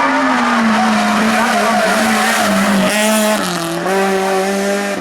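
Hill-climb race car engine held at high revs. Its pitch steps down twice about three seconds in, with a hissing tyre squeal at the same moment.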